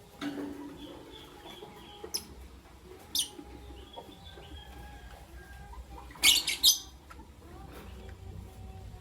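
Lovebirds chirping: a few short, shrill chirps, then a loud burst of several rapid chirps about six seconds in, over fainter twittering.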